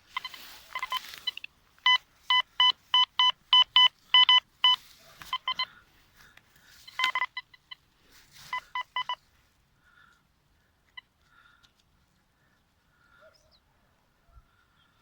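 Deteknix Quest Q40 metal detector with a Nel Tornado coil giving target signals: trains of short beeps at one steady pitch, about four a second, in several bursts, with rustling between them. This is a detector sounding off over buried metal. The beeping stops after about nine seconds.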